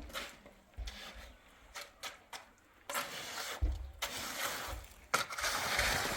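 Hand tools scraping and rubbing through cement mortar, with a few sharp knocks and longer scrapes in the second half.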